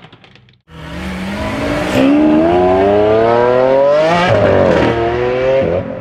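A car engine revving up, its pitch climbing steadily for about three seconds, then dropping sharply and rising again. It is preceded by a brief fade and a moment of silence.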